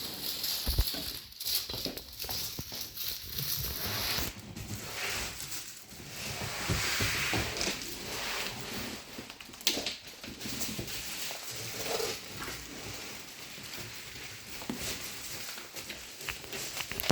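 Packaging being handled: irregular rustling and scraping with scattered short knocks.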